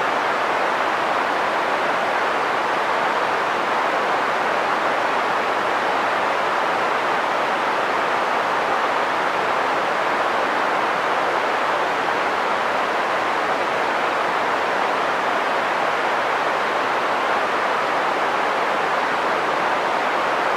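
Green noise: a steady, unchanging hiss with its energy centred in the middle of the hearing range, thinner in the deep bass and the highest treble.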